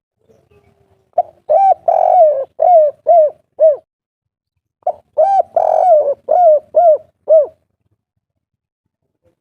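Spotted dove cooing its 'kuk 3' song twice: each phrase is a few short coos, a longer burry note, then three short separate closing 'kuk' notes.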